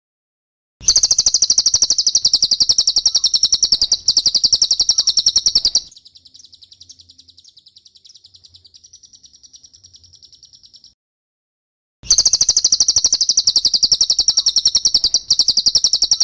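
Cililin calling: loud, very rapid high-pitched trills in runs of several seconds. A softer, quieter trill follows the first run, then a short pause before the loud trill starts again.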